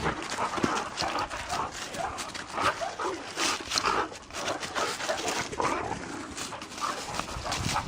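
A dog making many short, rapid vocal sounds of changing pitch, mixed with quick clicks.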